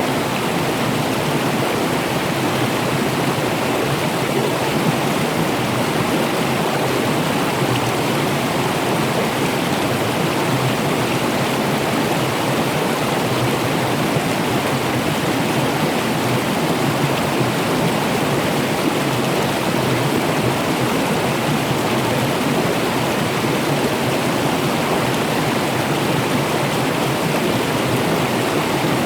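Running water, rushing steadily and evenly without a break.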